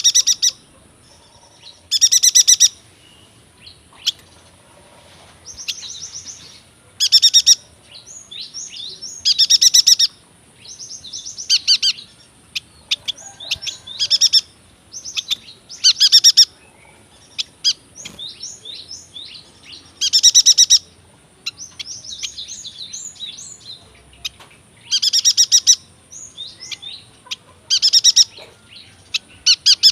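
Yuhina singing: loud, rapid high trills about a second long, repeated every two to five seconds, with softer chirps and twitters in between.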